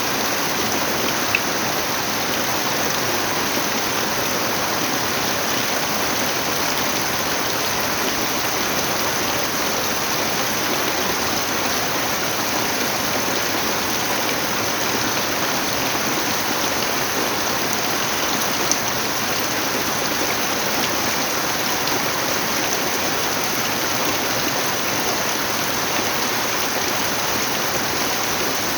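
Steady heavy rain falling, an even hiss with a few faint drop ticks.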